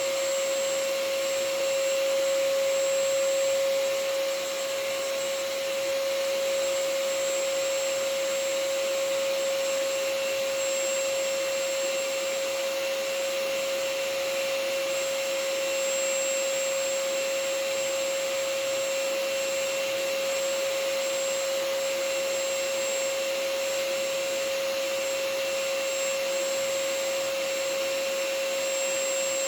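Vacuum cleaner running steadily: an even rushing noise with a constant motor whine.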